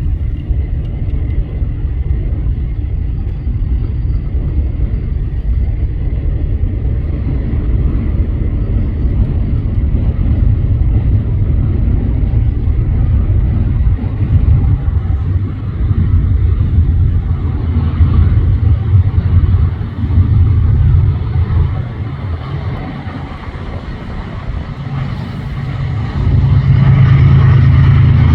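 Diesel locomotives of a freight train running, a steady low rumble that eases off a few seconds after the middle and swells again near the end.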